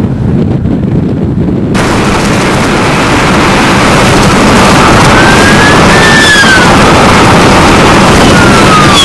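Very loud, steady roar of a tornado and storm wind, a dense rushing rumble that grows fuller and louder over the first few seconds. Over it, a whining tone rises and falls about halfway through, and another falls near the end.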